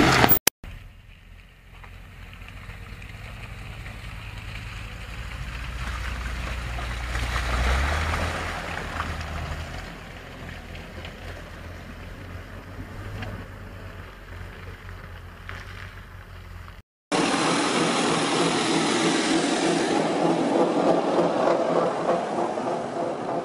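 Off-road 4x4 truck engine running, swelling to a louder rev about eight seconds in and then easing off. After a sudden cut near seventeen seconds, a louder, rougher engine sound follows.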